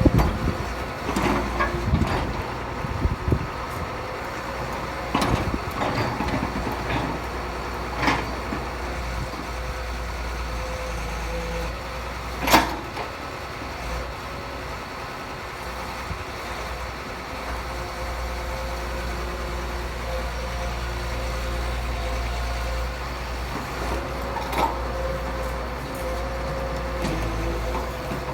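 Heavy diesel machinery on a worksite, an excavator and dump trucks, running steadily with a low drone. Scattered knocks come through, several in the first few seconds and one sharp knock about midway.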